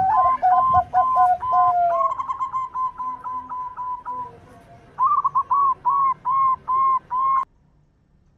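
Zebra dove (perkutut) cooing in a rapid series of short clipped notes, with a second, lower falling series of notes overlapping during the first two seconds. A fast run of notes follows, then six louder coos, and the sound cuts off abruptly near the end.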